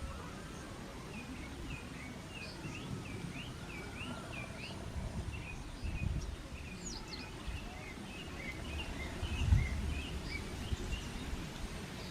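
A small bird twittering: long runs of short, quick, high chirps, over steady outdoor background noise. A few low thumps break in, the loudest about nine and a half seconds in.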